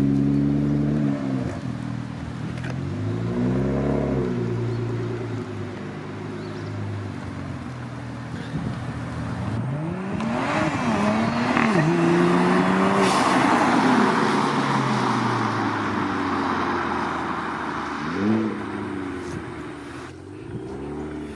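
BMW 335i's twin-turbo N54 straight-six through a straight-piped exhaust (X pipe in place of the resonator, muffler delete), revving up and down: the pitch drops early, a short rev about four seconds in, then a long climb from about ten seconds that is the loudest part, and more short revs near the end.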